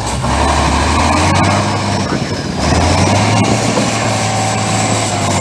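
Truck engine running hard under load. Its low drone breaks off briefly about two seconds in and comes back at a slightly higher pitch.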